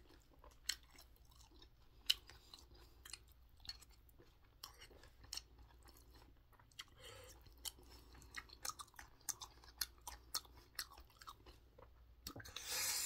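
Close-up chewing of a mouthful of rice and a whole cheongyang green chili pepper, with short sharp clicks of a metal spoon in a stainless steel bowl as the food is stirred and scooped. A louder hiss comes about a second before the end.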